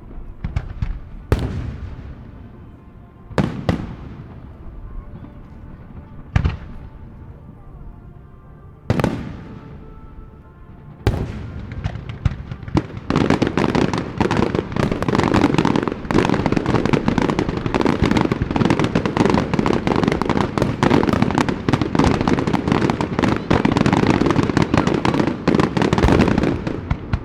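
Aerial fireworks display: a handful of single shell bursts going off one at a time, each with a rolling echo, then from about thirteen seconds in a dense rapid barrage of many shells bursting and crackling together until near the end.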